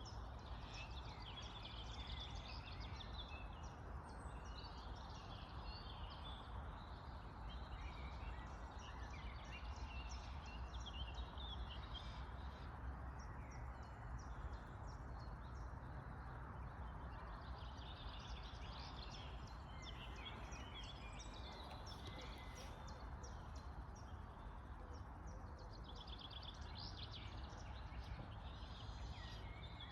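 Birds singing in bouts of quick, high chirps that come and go every few seconds, over a steady low rush of outdoor background noise.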